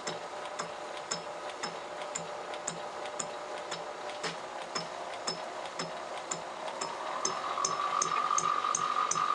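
Lathe-driven fly cutter taking an interrupted cut, its single tool ticking once a revolution at about two ticks a second over the steady running hum of the lathe. In the last couple of seconds the ticks come faster and a steady high whine sets in.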